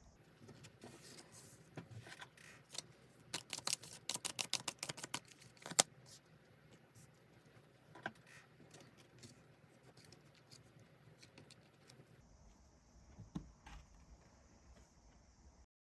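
Tarot cards being handled: a quick run of crisp flicking clicks about three seconds in, ending in one sharp snap, like cards riffled or snapped down, then light scattered ticks and a soft tap near the end.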